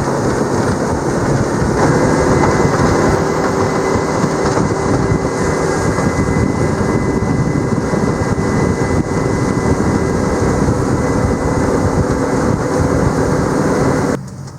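Outboard motor running steadily at cruising speed on a moving boat, under a constant rush of wind and water noise; it cuts off suddenly near the end.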